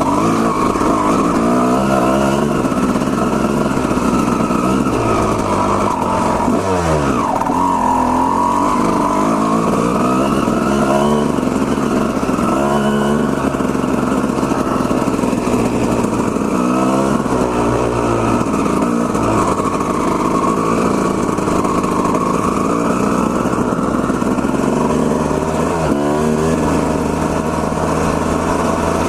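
Two-stroke Honda CR250R dirt bike engine running under way, the revs rising and falling repeatedly as the throttle opens and closes.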